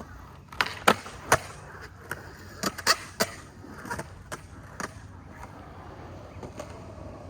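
Skateboard clacking: about ten sharp board impacts in the first five seconds as the deck and wheels hit the ground during tricks, over a steady low rumble. After that only a few faint ticks.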